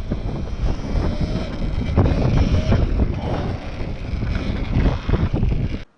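Heavy wind buffeting the microphone while riding an electric dirt bike, a loud rumbling roar with little engine note; it cuts off abruptly near the end.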